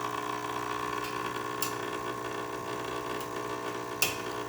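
Saeco Xelsis Evo espresso machine's water pump running with a steady hum as it pushes water through the brew unit and out the spouts during a coffee brew. Two short sharp clicks cut in, about a second and a half in and near the end.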